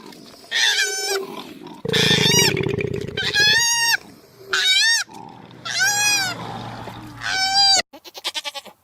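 An animal giving a series of loud, high squealing calls, each rising and then falling in pitch, about six in a row. A short, fast rattling call comes near the end, then the sound cuts off.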